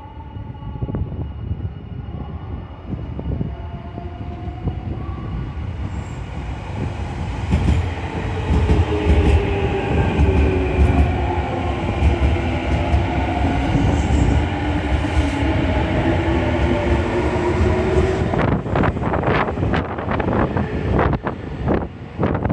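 Nankai electric train moving through a station: its motors give a whine whose several tones bend in pitch over the rumble of the running gear. From about 18 s in, a fast run of sharp clacks as the wheels cross rail joints and points.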